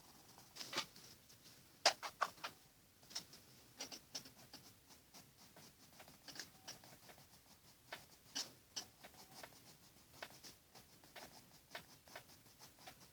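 Faint, irregular short scratches and taps of watercolour pencils stroking on paper.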